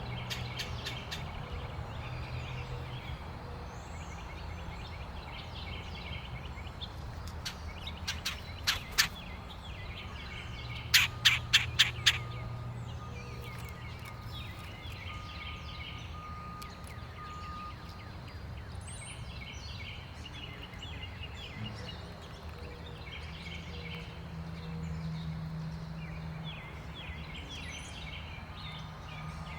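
Small birds chirping in short repeated bursts over a steady low hum. About eight seconds in come three sharp taps, and about eleven seconds in a quick run of five louder taps, the loudest sounds here.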